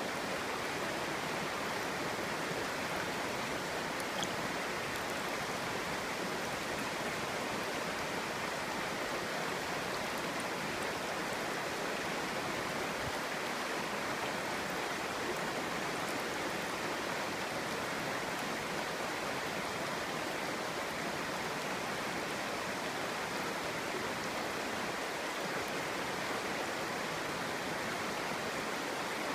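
A clear shallow stream babbling steadily over stones, a constant even rush of water.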